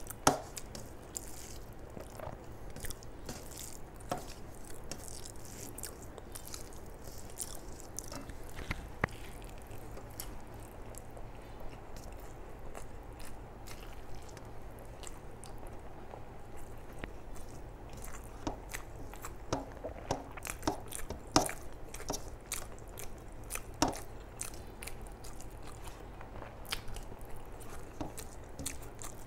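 Close-up eating sounds of a person chewing rice and chicken liver and gizzard curry, with many short wet mouth clicks and smacks. There is also the squish of fingers mixing rice on a steel plate.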